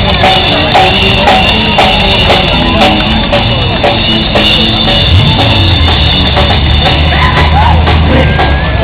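Live rock band playing, with a drum kit beating steadily through the music.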